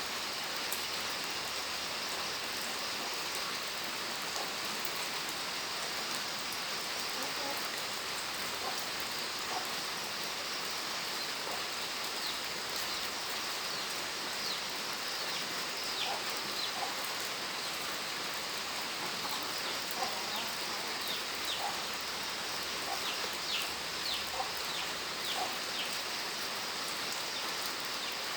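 Steady rain falling, an even hiss of drops. About halfway in, short high chirps begin over it and become more frequent near the end.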